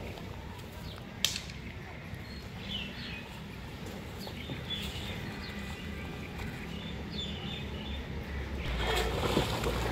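Faint short bird chirps over a low outdoor rumble, with one sharp click about a second in and a rushing noise that grows louder near the end.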